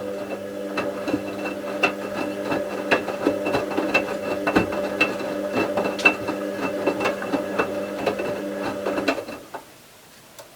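Bauknecht WA 7778 W washing machine running for about nine seconds: a steady motor hum with many irregular clicks and knocks, cutting off abruptly near the end.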